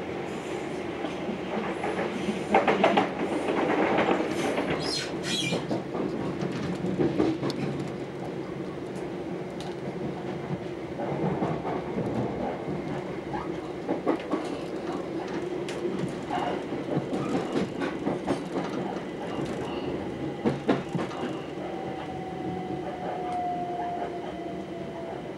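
On-board running noise of a Southern Class 377 electric train: wheels clattering over rail joints and pointwork. It rattles louder a few seconds in as another train passes close alongside, and a thin falling whine comes in near the end.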